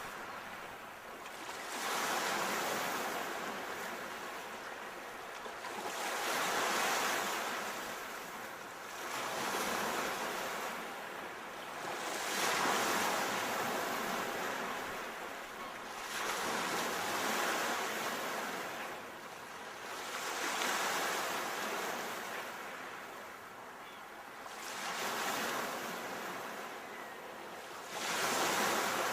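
Ocean waves breaking and washing onto the shore, each one swelling and then fading, a new surge every three to four seconds.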